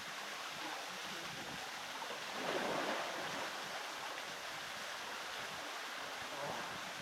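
Steady rush of flowing creek water, swelling briefly about two and a half seconds in.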